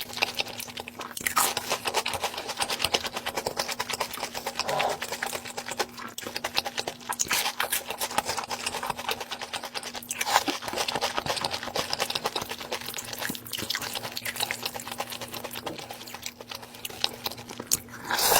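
Close-miked eating sounds: chewing and crunching food, with a dense run of small crisp clicks and a louder bite every few seconds, over a faint steady hum.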